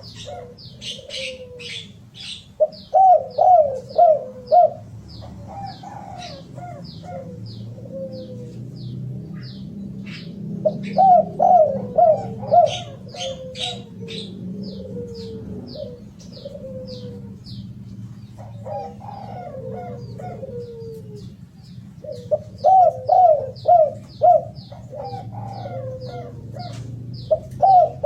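Derkuku dove cooing: phrases of four or five low, wavering coos repeated every several seconds, in the rhythmic song used as a lure to set other doves singing. A small bird chirps high and fast throughout.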